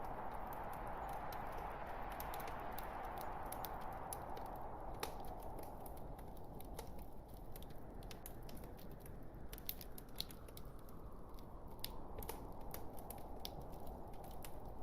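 Wood fire burning in a fireplace: irregular sharp crackles and pops from the logs over a steady soft hiss.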